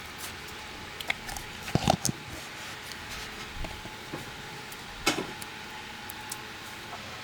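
A few short knocks and clatters over steady background hiss, the loudest a pair about two seconds in and another about five seconds in.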